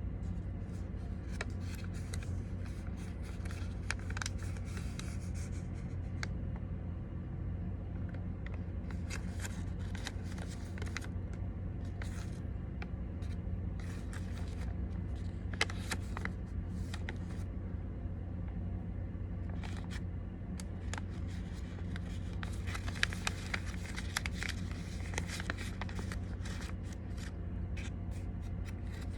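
A sheet of origami paper being folded and creased by hand: scattered crinkles, rubs and light crackles of the paper, over a steady low hum.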